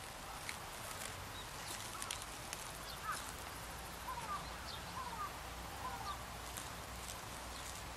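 Outdoor field ambience with a distant bird giving a run of short rising chirps from about three seconds in, over a steady background hiss. Light clicks from the grass leaves being handled close by.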